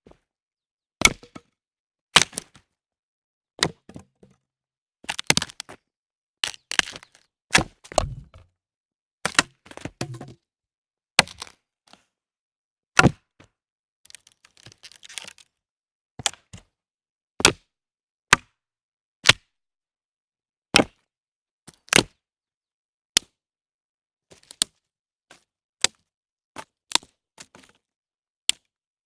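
A series of separate short, sharp cracks and snaps, irregularly spaced about one every second. In the first third some come in short rattly clusters with a duller thud. Later they are single crisp clicks.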